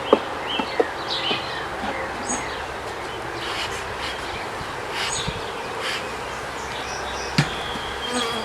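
Honey bees buzzing around open hives, a steady hum, broken by a few sharp knocks and short bird chirps.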